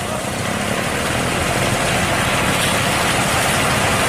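Heavy diesel engine of construction machinery running steadily, with a dense, even mechanical noise.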